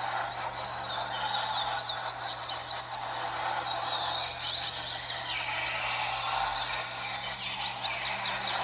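A chorus of many double-collared seedeaters (coleiros) singing at once, fast overlapping high chirping phrases, as in a roda where the males sing against each other. It sits over a steady background of noise.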